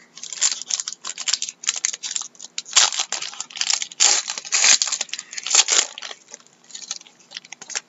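Foil trading-card pack wrapper being torn open and crinkled by hand, a dense run of irregular crackles that thins to a few scattered rustles near the end.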